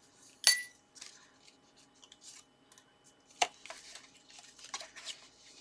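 Handling of card and paper at a craft table: light rustling and small taps, with a sharp, briefly ringing clink about half a second in and a second sharp click about three and a half seconds in.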